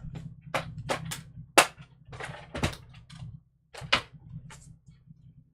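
Irregular clicks and light clatter of craft pieces being handled and set down on a counter, about a dozen sharp taps with the loudest about a second and a half in.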